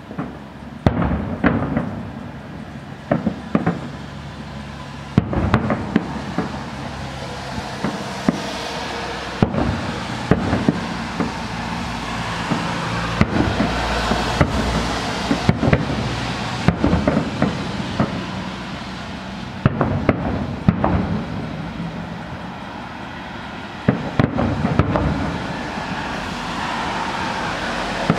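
Aerial fireworks shells bursting one after another, sharp booms echoing. A denser, steady hiss fills the stretch between the booms in the middle of the display.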